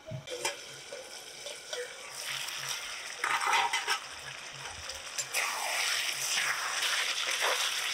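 Chicken pieces frying and sizzling in a kadai, stirred with a spatula that scrapes against the pan now and then. The sizzle grows louder about three seconds in.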